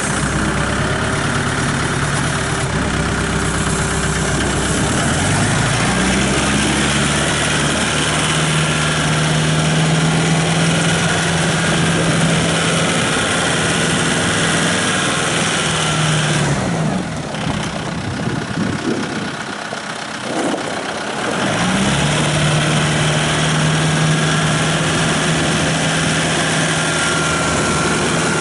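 Kubota M7060 tractor's four-cylinder diesel engine running: it revs up about five seconds in and holds a steady higher speed, drops back to idle for a few seconds past the middle, then revs up again and holds.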